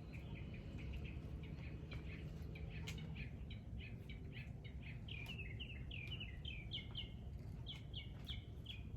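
Small songbird chirping: a long run of short, quick high notes that grows busier and more closely spaced from about three seconds in.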